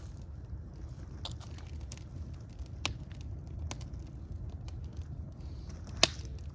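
Wood fire crackling, with scattered sharp pops over a steady low rumble; the loudest pop comes about six seconds in.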